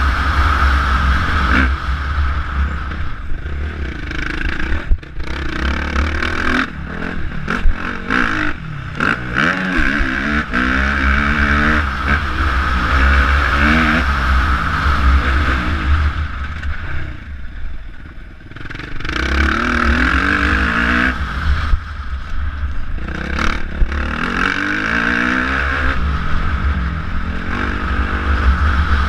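Motocross bike engine revving hard and falling off again and again as it is ridden round the track, with a heavy low rumble throughout and a few sharp knocks. The engine drops away briefly about two-thirds of the way through, then picks up again.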